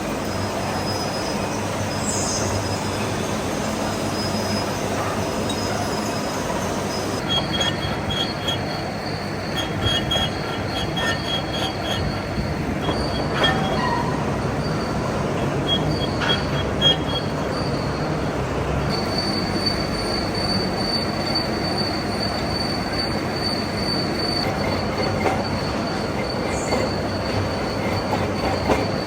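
Metal being machined in a workshop: a steady mechanical din with thin, high-pitched squealing tones from the cut. The squeal pulses in the middle stretch and settles into a steady whine near the end.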